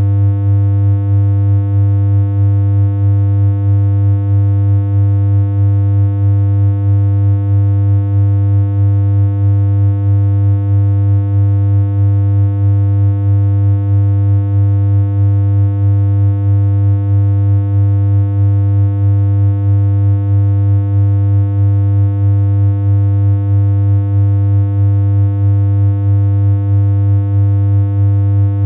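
Synthesized electronic hum: a single low tone held at one unchanging pitch, with a slight regular pulse in its loudness.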